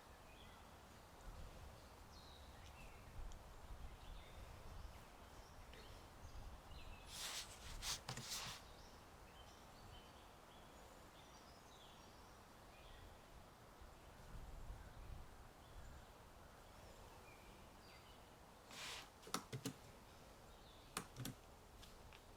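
Faint ambience of birds chirping over low wind, broken by two short bursts of computer keyboard typing, about seven seconds in and again near the end.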